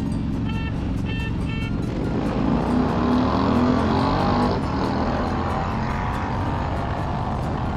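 Big V-twin bagger motorcycles accelerating hard in a roll-on race: the engines rev up from about two seconds in and are loudest a little past the middle. Background music with a steady beat plays along.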